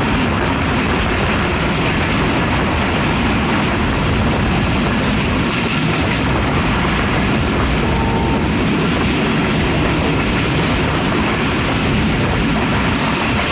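Train passing close by: a loud, steady rumble and rattle of wheels on the rails.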